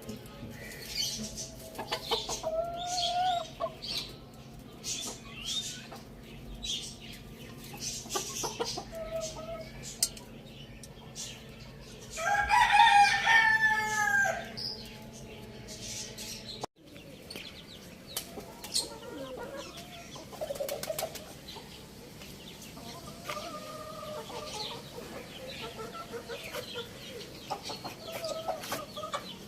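Hen and rooster clucking among many short clicks of pecking at food. A rooster crows once, about two seconds long, starting about twelve seconds in; it is the loudest sound.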